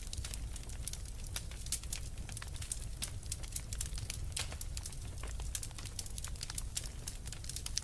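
Wood fire crackling in a fireplace: many small, irregular pops and snaps over a steady low rumble of burning.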